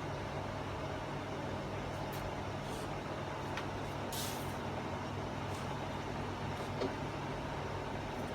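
Steady low background hum, with a few faint clicks and one brief hiss about four seconds in.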